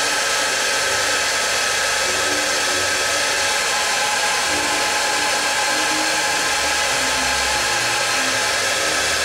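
Handheld hot-air blower running steadily, a constant rushing hiss with a steady motor whine, drying the rim of a freshly thrown clay pot to stiffen it.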